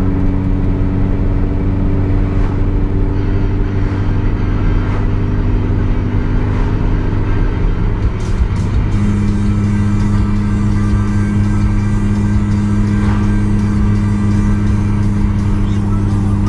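A Subaru's flat-four engine running with a steady drone at cruising speed, along with road and tyre noise, heard from inside the car's cabin. The engine note steps up slightly about eight or nine seconds in.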